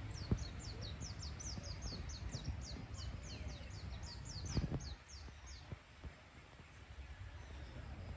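A bird singing a fast series of short, high, descending notes, about four to five a second, that stops about five and a half seconds in, over a low background rumble that eases at about the same time.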